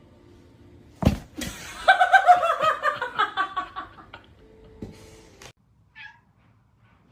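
A sharp knock, then a cat's rapid run of repeated high-pitched calls, slowly falling in pitch, with a brief call near the end.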